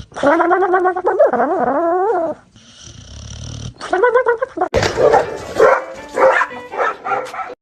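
A dog vocalizing. First one long call, about two seconds, with a wavering pitch, then a short call, then a quick string of short, choppy calls near the end.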